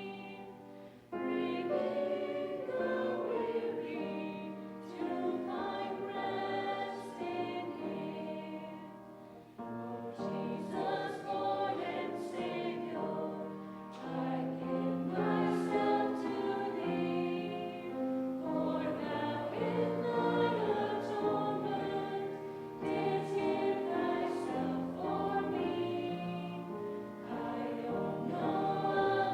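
A choir or vocal group singing a sacred song in sustained, slow-moving chords over a steady bass line.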